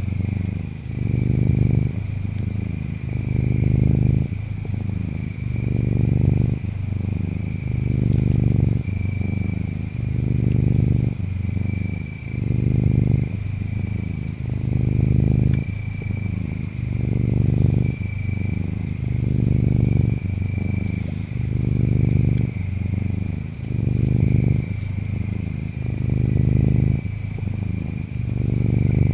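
Domestic cat purring, swelling and easing in a slow rhythm of about one cycle every one and a half seconds, over a steady chorus of chirping insects with a high, thin trill that comes and goes.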